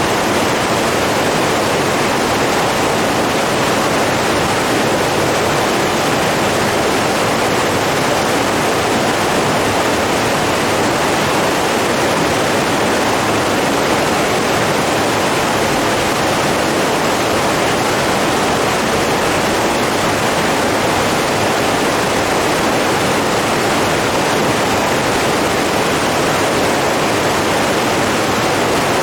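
Rushing water running steadily, an even hiss with no breaks or separate events.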